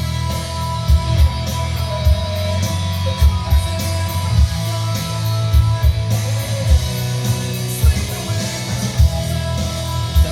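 Rock music with guitar, strong bass and drums, played back from a Denon DCD-210 CD player during a sound test.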